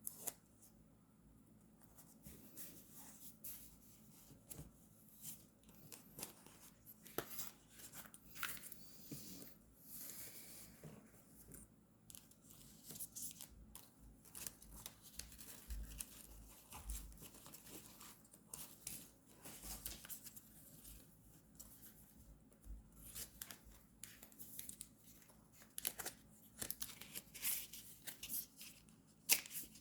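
Paper and stickers being handled close up for journal decorating: irregular rustling, snips and short tearing sounds.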